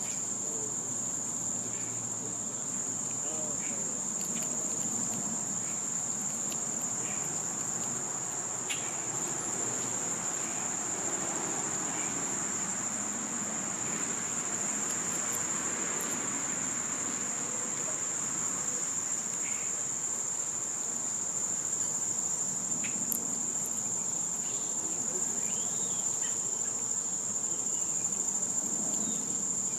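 Chorus of summer insects holding one steady, high-pitched drone without a break, with a few faint short chirps over it.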